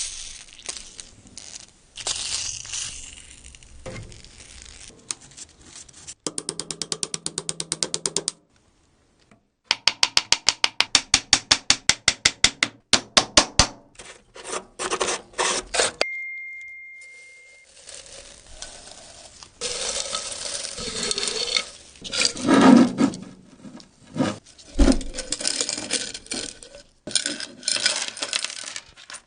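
Clicking, scraping and knocking of small hard parts being handled. About six seconds in comes a run of rapid even clicks, about ten a second, and a longer run follows from about ten seconds in. A short steady beep sounds near the middle.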